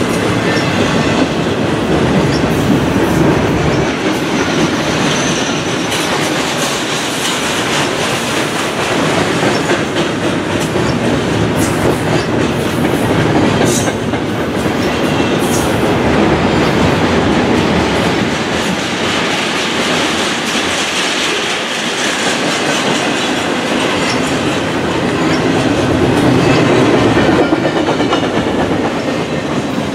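A train's cars rolling past on the track, the wheels clicking over rail joints in a steady, continuous rumble.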